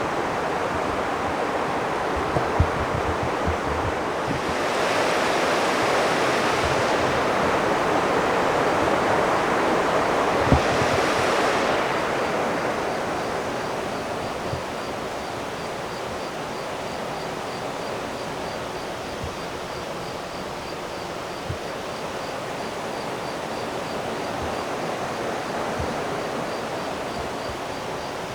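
Steady rush of flowing river water, swelling louder for several seconds from about five seconds in, with a few soft knocks. A faint high pulsing tone comes in about halfway through.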